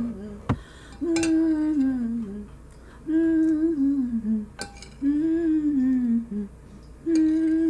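A woman humming a tune a cappella in four falling phrases of about a second and a half each, with a couple of sharp clicks between them.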